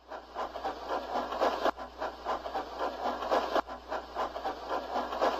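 Bachmann HO model train running on its track: a busy, uneven clatter of wheel clicks over a steady low motor hum.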